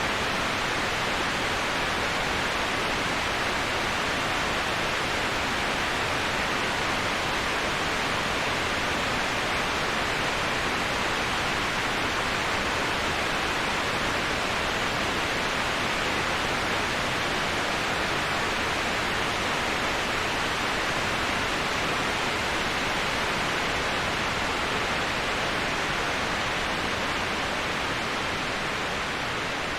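Waterfall rushing: a steady, even hiss of falling water with no breaks, strongest in the middle-to-high range.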